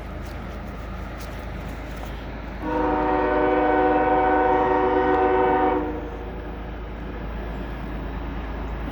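A CSX freight locomotive's air horn sounds one long blast of about three seconds, a steady multi-note chord, starting about two and a half seconds in, over the continuous low rumble of the approaching train.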